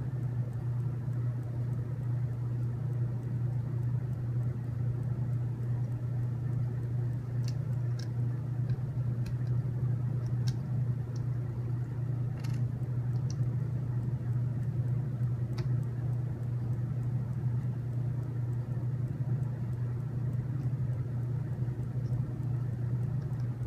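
Steady low hum, like a fan or appliance running, with a few faint light clicks scattered through the middle, as of small parts being handled.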